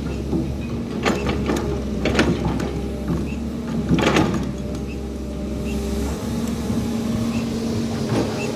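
Excavator's diesel engine running steadily, with loud metallic clanks and knocks about one, two and four seconds in. A low hum cuts off about six seconds in.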